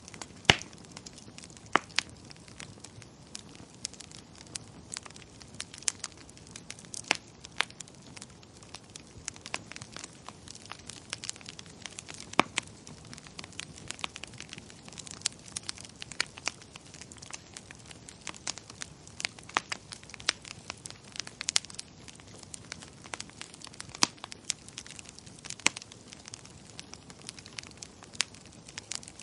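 Wood fire crackling in a fireplace: a steady low hiss with irregular sharp pops and snaps, a few much louder than the rest.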